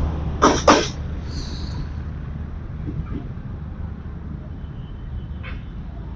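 Moving train: two sharp wheel clacks over rail joints about half a second in, then a steady low rumble of the running train.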